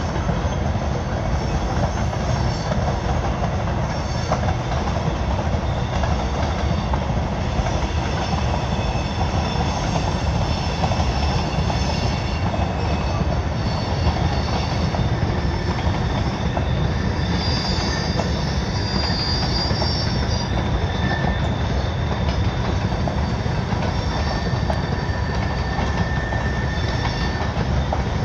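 Long freight train of covered hopper cars rolling past: a steady rumble of wheels on rail, with thin high wheel squeals coming and going, the strongest about two-thirds of the way through.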